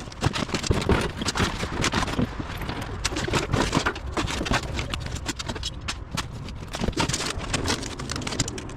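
Irregular clattering and knocking, many quick knocks in a row at uneven spacing, as trash and scrap are handled.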